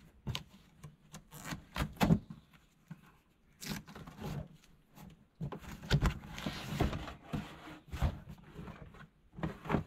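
Irregular knocks, clicks and rubbing as drain-tile fittings and parts are handled and assembled, with a stretch of scraping or hissing noise about six seconds in.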